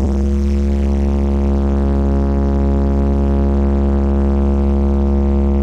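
Blizzard Audio carnival sound system playing one loud, steady, deep bass tone with many overtones, held without change after the music cuts off right at the start.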